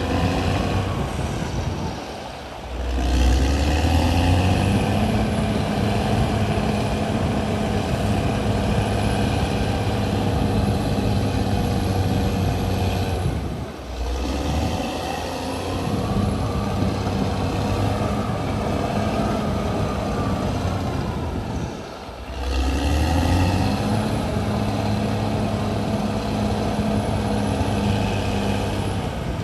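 Caterpillar D6R XL bulldozer's diesel engine running under working load, its pitch and level rising and falling as it pushes. The sound dips briefly three times and comes back with a deeper surge each time. A whine rises and falls about halfway through.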